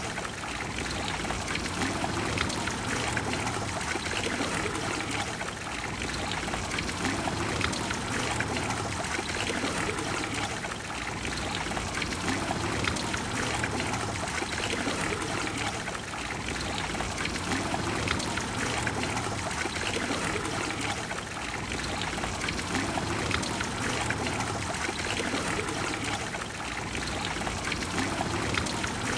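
Water of the Trevi Fountain splashing and pouring steadily into its basin, a continuous rushing with gentle swells every few seconds.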